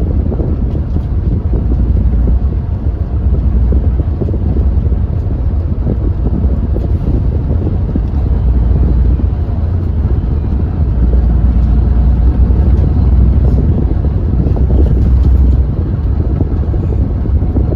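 Hyundai New Super Aero City CNG city bus engine running under way, a loud, steady, deep engine sound with wind noise on the microphone; it eases off slightly near the end.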